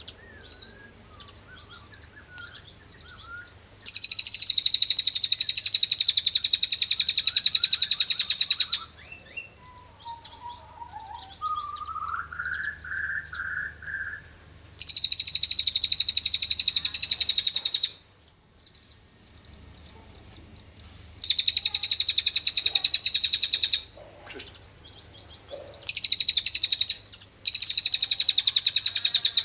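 Cililin bird singing its long, fast, high-pitched rattling trill (ngriwik panjang), five trills of one to five seconds each, with soft scattered chirps between them.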